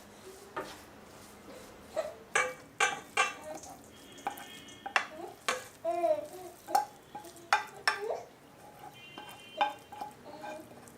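Kitchen utensils clinking and scraping as food is stirred in a pan, an irregular run of knocks about every half second, with a short wavering pitched sound about six seconds in.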